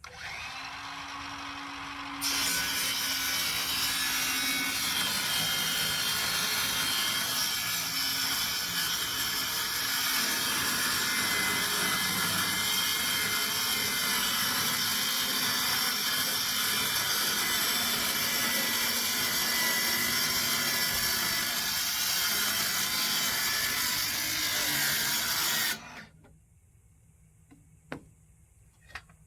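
Electric power saw cutting wood in one long, steady run. A quieter lead-in with a low hum lasts about two seconds, and the cut stops abruptly near the end.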